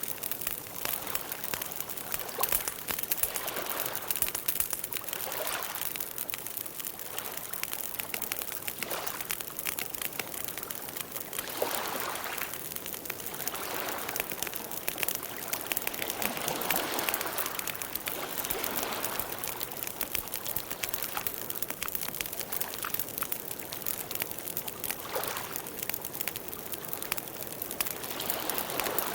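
Campfire burning: wood crackling with many small, irregular pops and snaps over a steady hiss of flame, swelling softly now and then.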